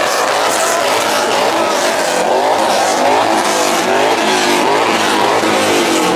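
Car engines revving hard, their pitch rising and falling over and over, loud and unbroken.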